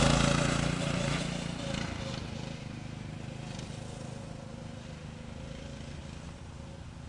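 Dirt bike engine running as the bike rides away, fading steadily into the distance.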